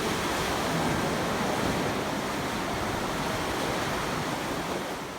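Sea surf washing steadily, a continuous rushing noise that fades away near the end.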